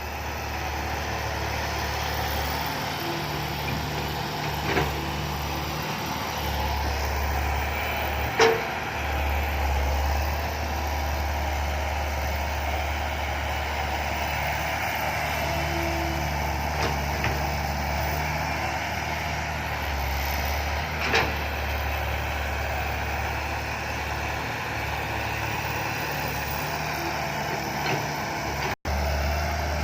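The diesel engine of a 210-horsepower six-wheel dump truck loaded with soil, running steadily and hard as it pulls up a sticky clay ramp. A few short sharp clicks sound over it, and the sound drops out for an instant near the end.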